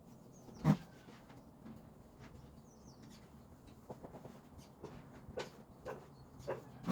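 A sharp knock about a second in and another near the end, among scattered light clicks and taps: things being handled and set down while a room is cleaned.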